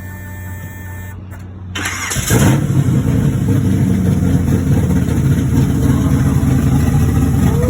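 A car engine cranks and fires up about two seconds in, then runs loudly with a deep rumble. Before it starts there is a steady low hum.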